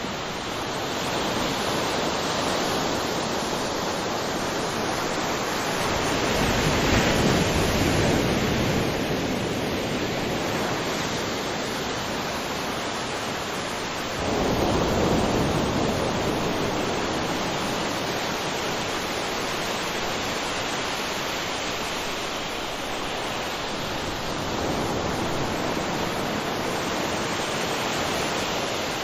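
Waterfall: a steady rush of falling water that swells louder now and then, most clearly about six to eight seconds in and again at about fourteen seconds.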